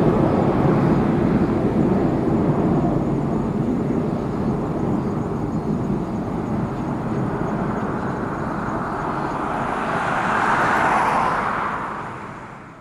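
Boeing 747-400F freighter's four jet engines at takeoff power, a steady deep roar as it climbs away, with a brief rise about ten seconds in before the sound fades out near the end.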